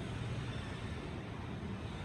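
Gree 12,000 BTU split air conditioner running under test: a steady whooshing hum with a deep rumble underneath.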